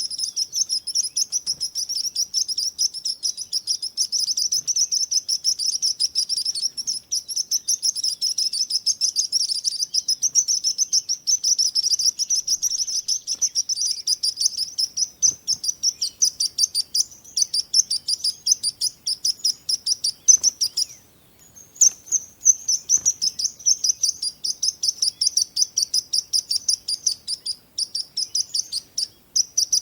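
Birds chirping in a dense, continuous stream of rapid high-pitched notes, with a short break a little over two-thirds of the way through.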